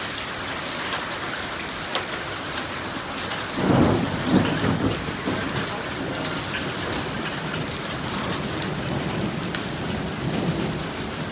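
Heavy rain falling steadily, with many sharp drop hits. About three and a half seconds in, a rumble of thunder rises, is loudest for a second or two, then fades back under the rain.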